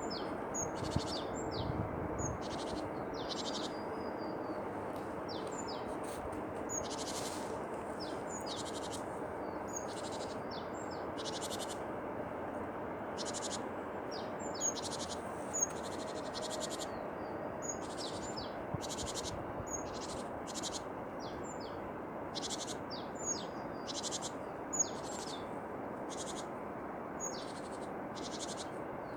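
Tits singing and calling: short high notes repeated over and over, about one or two a second, over a steady low background rush.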